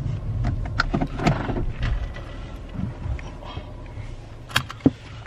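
Car slowing to pull over: the low rumble of the moving car fades as it slows, with scattered clicks and knocks and a couple of louder ones near the end.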